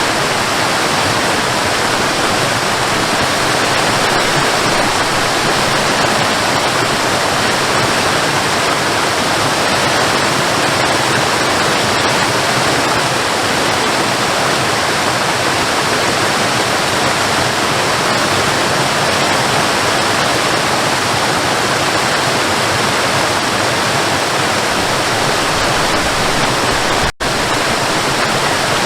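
Waterfall: a steady, dense rush of falling water, with a split-second break in the sound near the end.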